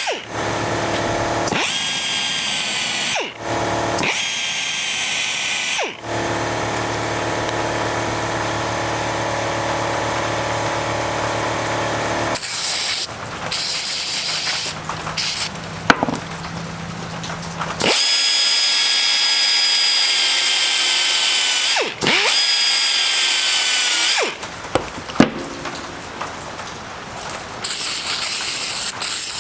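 Electric power tool running in a series of edited segments with abrupt breaks, its pitch sagging as it slows before some of them.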